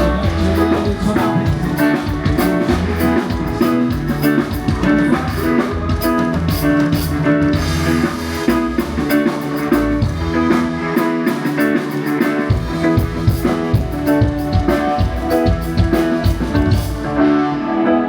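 Band playing an instrumental passage with drum kit and guitar over bass. The bass drops out for a moment about eleven seconds in, then comes back.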